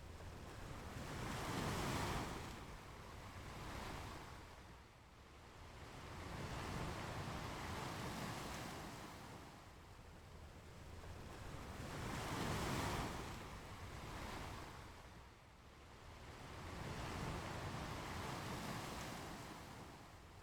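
Ocean waves breaking and washing up on a beach, each wave swelling to a rush of surf and then fading, about every five seconds.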